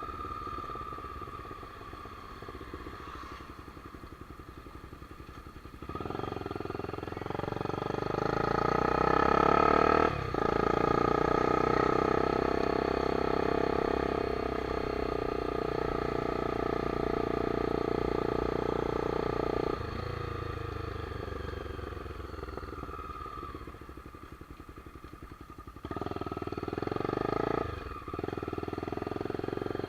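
Honda CBX 250 Twister single-cylinder motorcycle engine on the road. It slows at the start, then accelerates twice with rising pitch, dipping briefly at each gear change. Between the two pulls it holds steady for about ten seconds before easing off.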